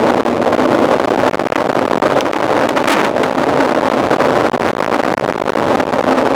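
Steady rush of wind over the microphone of a camera on a moving mountain bike, with scattered clicks and rattles from the bike.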